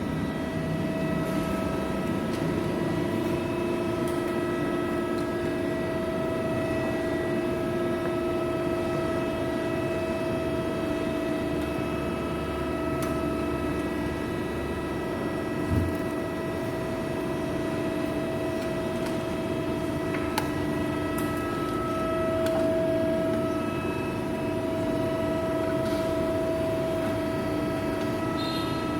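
Hydraulic press brake's pump unit running with a steady whine, with a single short low knock a little past the middle.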